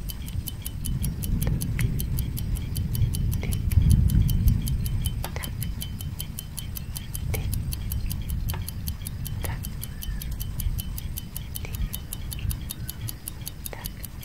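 Clock tick-tock sound effect: a fast, even run of sharp ticks, several a second, with a few stronger clicks every second or two, over a low rumble that swells about four seconds in.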